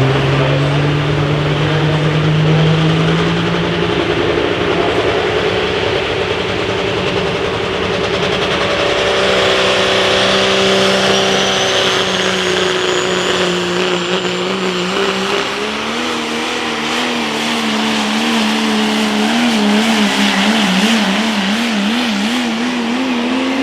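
Super stock diesel pulling truck's multi-turbocharged engine running hard through a full pull. A faint high whistle rises about ten seconds in, and the engine's pitch wobbles up and down near the end before the pull stops.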